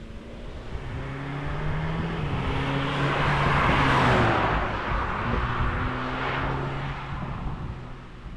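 2025 VW Golf GTI Clubsport's 2.0-litre turbocharged four-cylinder driving past. The engine and tyre noise build to a peak about four seconds in and fade as the car moves away, and the engine note drops as it passes.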